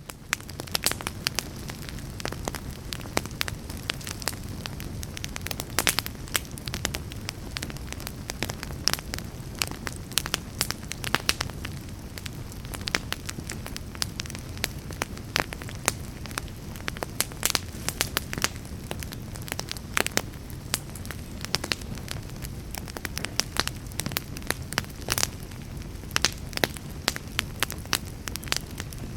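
Fire burning in a fireplace, crackling steadily with frequent sharp pops over a low, steady rumble of flames.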